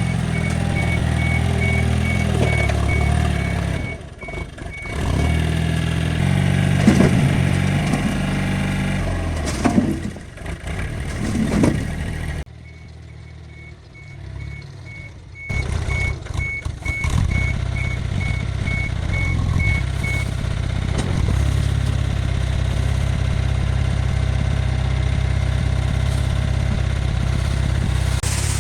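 Heavy vehicle engine running with a reversing alarm beeping about twice a second. The engine and beeping drop away for a few seconds past the middle, then come back and run steadily.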